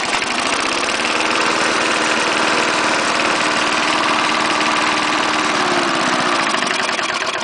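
1974 Snapper lawnmower's 3.5 hp Briggs & Stratton engine running steadily, freshly started cold on one pull. Its speed rises a little in the first second and drops back near the end as the throttle is moved.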